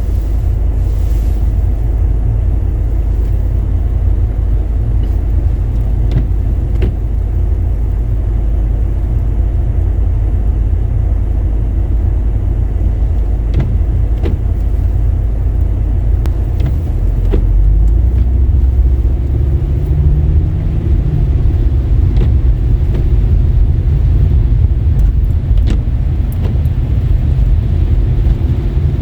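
Car driving on a wet road with a steady low rumble of road and engine noise. About seventeen seconds in the rumble grows louder and a rising tone comes in as the car speeds up, then the tone drops away a few seconds later.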